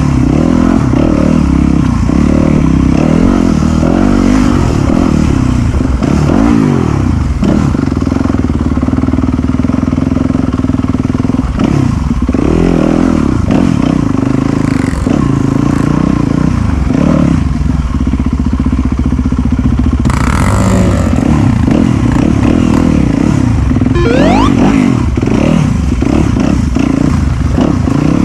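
Off-road enduro motorcycle engine running under load on a muddy trail, heard from on the bike, its revs rising and falling as the rider works the throttle, with a quick climb in revs near the end.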